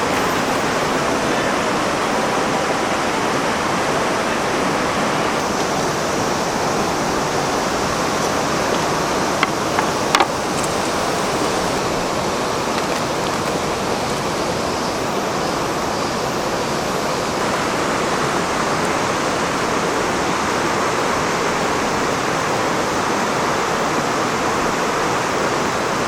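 Rushing river water, a steady even rush, with a couple of short clicks about ten seconds in.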